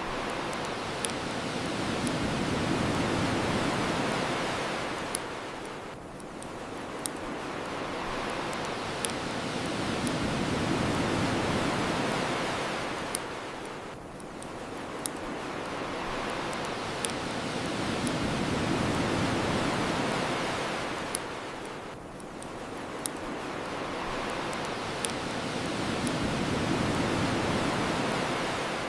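Ocean waves washing onto the shore, the rush swelling and fading about every eight seconds, with a bonfire crackling in short sharp pops every couple of seconds.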